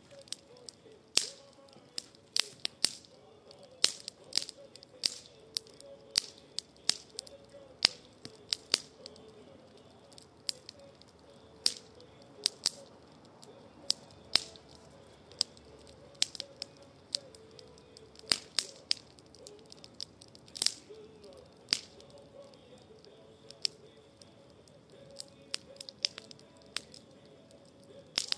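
Wood campfire crackling: irregular sharp pops and snaps, one to three a second, over a faint low background.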